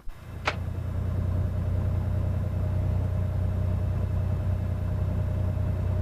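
Cessna 210's six-cylinder piston engine idling steadily on the ground, a low drone. A single sharp click comes about half a second in.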